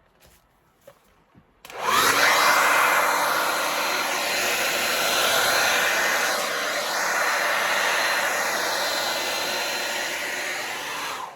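Hair dryer switched on about two seconds in, its motor whining up to speed, then blowing steadily with small shifts in pitch before it is switched off just before the end. It is blowing freshly poured acrylic paint across the canvas in a Dutch pour.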